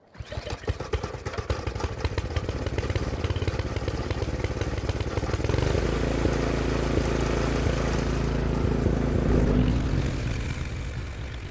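An engine starts up and runs. It is rough and uneven at first and settles into a steady running note about halfway through, then grows fainter near the end.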